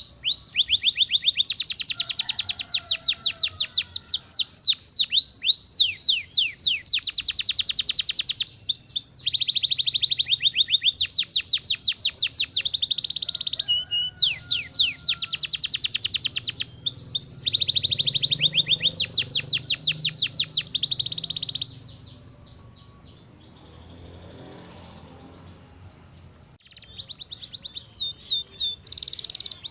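Domestic canary singing long rolling phrases of fast repeated notes and trills. It stops about two-thirds of the way through and starts again near the end.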